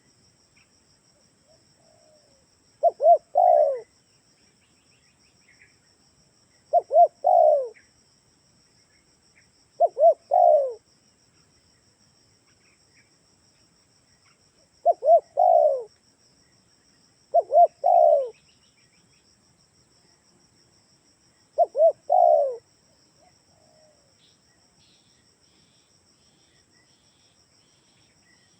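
Spotted dove (tekukur) cooing: six repeated phrases, each two short notes followed by a longer falling coo, spaced every three to five seconds, the last about two-thirds of the way through. It is a lure call for wild doves.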